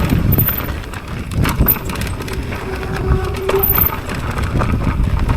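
Mountain bike riding down a rough trail: tyre rumble with constant rattling and knocks from the bike over roots and rocks. A brief steady tone about three seconds in.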